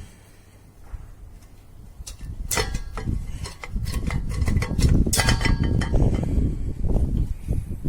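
Metal parts of an opened hermetic refrigerator compressor clanking and ringing as they are handled and worked loose, with rubbing and scraping between. There are sharp ringing clinks about two and a half seconds in and again around five seconds.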